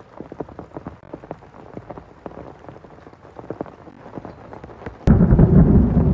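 Rain falling as many separate drops hitting a surface, then about five seconds in a sudden, much louder low rumble of thunder sets in.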